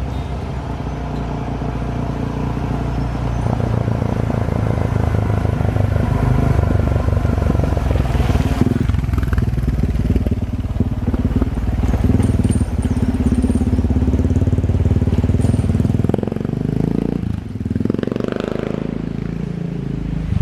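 Motor vehicle engine running as it is driven along, a steady low drone that eases off and picks up again near the end.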